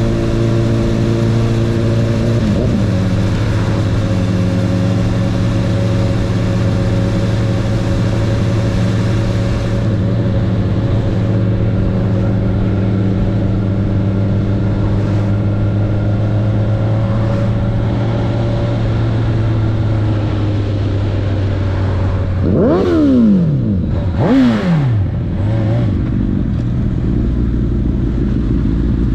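Honda CB1000R inline-four engine idling steadily, blipped twice near the end, the pitch jumping up and falling straight back each time.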